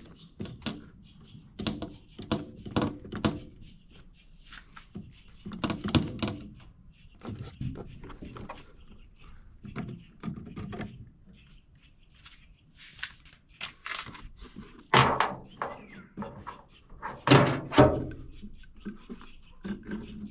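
Irregular knocks, clunks and clicks of a hand wrench and loosened car parts being handled as fixings are undone with a 16 mm tool. The two loudest thuds come in the last third.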